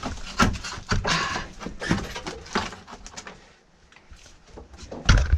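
Junk being worked loose and pulled out of a cramped RV interior: a run of knocks, clicks and rustling, with a heavy thump just after five seconds in.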